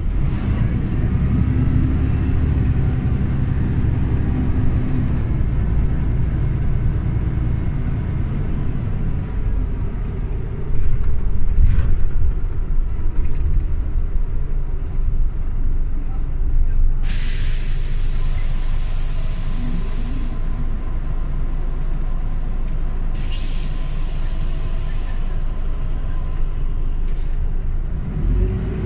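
Scania OmniLink CL94UB city bus heard from inside, its engine running with a steady low hum. Two loud hisses of released compressed air come about two-thirds of the way through, a few seconds apart, from the air brakes or door pneumatics.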